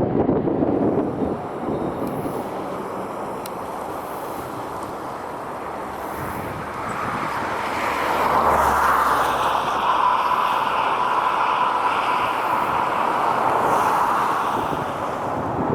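Jet airliner's engines swelling about halfway through into a steady high whine over a rushing noise, as a plane passes, with wind buffeting the microphone.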